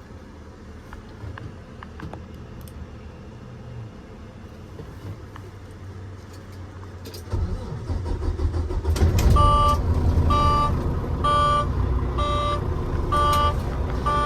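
A few light clicks over a quiet low rumble, then about seven seconds in a semi truck's diesel engine starts and runs. About two seconds later a cab warning beep begins, repeating about once a second.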